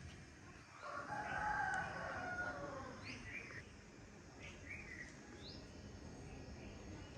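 A rooster crowing once, a call of about two seconds, followed by small birds giving short rising chirps.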